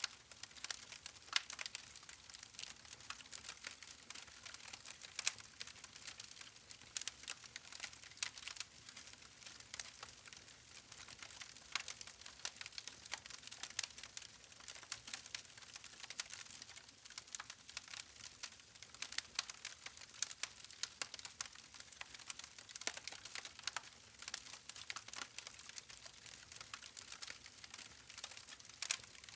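Wood campfire crackling: a continuous, irregular stream of small sharp pops and snaps from the burning logs, with an occasional louder pop.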